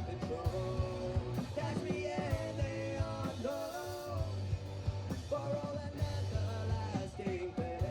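A rock band's song with a sung vocal line over electric guitar, bass and drums.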